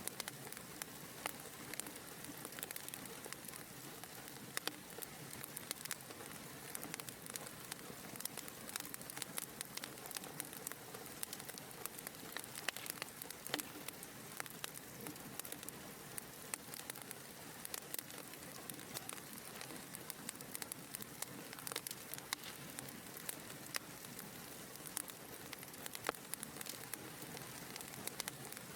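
Wood fire in a fireplace crackling: a steady soft hiss with many small, irregular pops and snaps.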